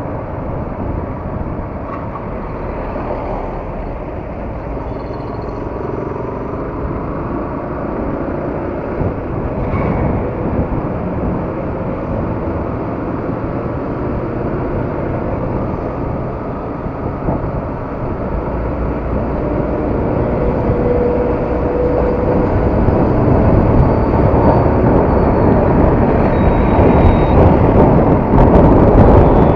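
Yamaha R15 motorcycle on the move: a steady rush of wind and road noise with a low rumble underneath, growing louder over the last ten seconds or so.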